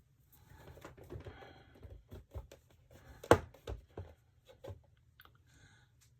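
Small clicks, taps and rustling of epoxy supplies being handled on a work table, with one sharper knock a little over three seconds in.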